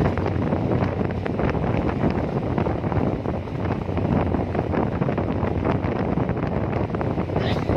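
Strong wind buffeting the microphone on a ferry's open deck, with the ferry's engine running as a steady low hum underneath.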